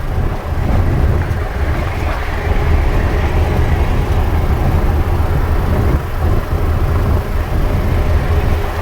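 Peterbilt big rig running on the road: a steady low engine drone with road and cab noise.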